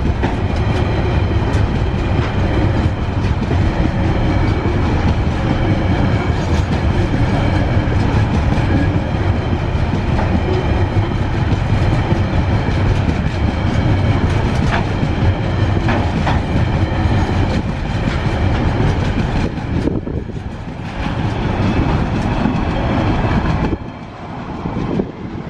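Wagons of a TasRail freight train rolling past close by: a steady rumble and clatter of steel wheels on the rails, with a few sharp clicks. The noise drops away near the end as the last wagon passes.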